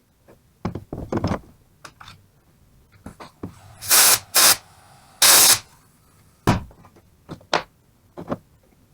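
Knocks and clacks of metal tools and alternator parts being handled on a workbench, with three short, loud hissing bursts in the middle.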